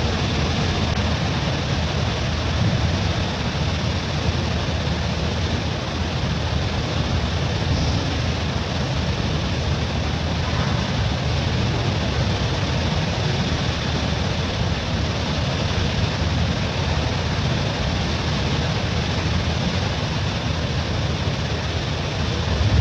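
Steady rushing background noise, even and unbroken, heaviest in the low range, with no distinct events.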